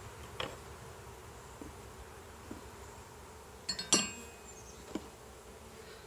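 Honeybees buzzing steadily around an opened nuc hive, with a few light knocks and one sharper, ringing clink about four seconds in as the hive is handled.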